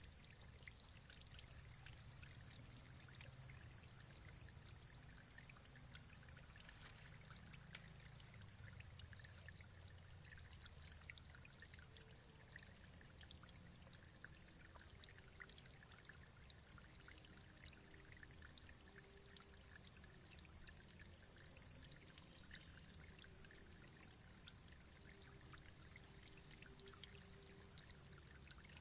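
Faint, steady running water, like a small stream trickling and splashing, with many small drips.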